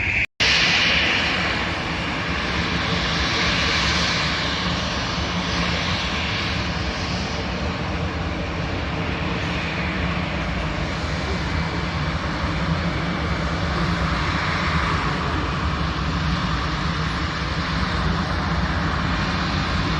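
Airliner's engines running close by, a continuous loud rushing noise that swells and eases slightly, after a brief break in the sound just after the start.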